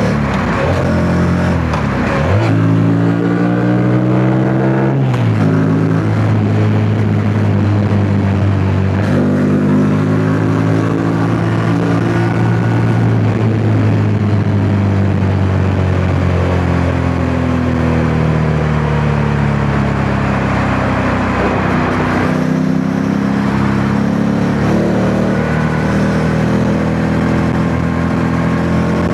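Yamaha MT-07's parallel-twin engine under way, revving up and easing off again and again, its pitch rising and then dropping back at each gear change. Wind noise rushes over the microphone.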